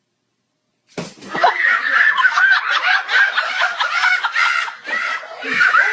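Silence for about a second, then people laughing and giggling in rapid high-pitched bursts.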